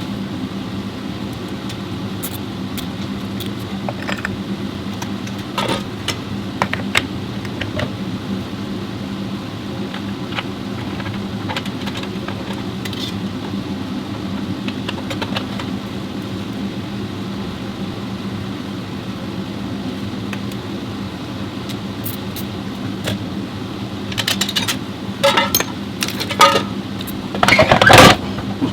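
Scattered metallic clinks and knocks of transmission parts and hand tools being handled, over a steady mechanical hum; a run of louder clanks comes near the end.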